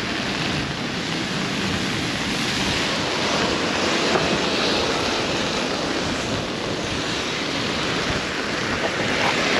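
Steady rushing noise of strong wind and heavy rain, with wind on the microphone.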